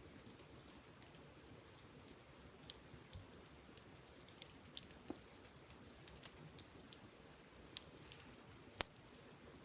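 Wood campfire crackling: irregular small snaps and ticks from the burning logs, with one sharper, louder pop near the end.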